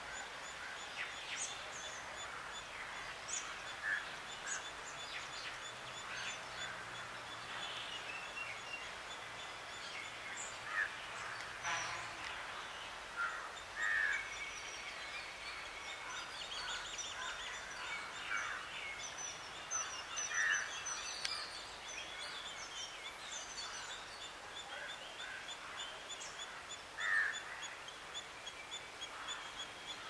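Several birds calling and chirping in trees: short, bright calls stand out every few seconds over a busy background of chirps, with a fast, even, high-pitched ticking running underneath.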